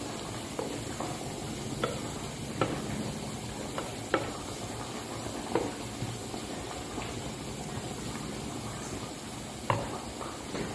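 Finely chopped food sizzling in hot oil in a small non-stick frying pan, stirred with a wooden spatula. The steady sizzle is broken by sharp taps and scrapes of the spatula against the pan every second or so; it is being fried until brown.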